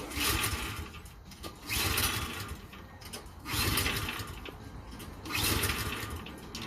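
Toro Power Clear 621QZE's 163cc OHV four-stroke snowblower engine being cranked four times, about a second each, without firing. It is a no-start that the mechanic suspects needs a carburetor cleanup.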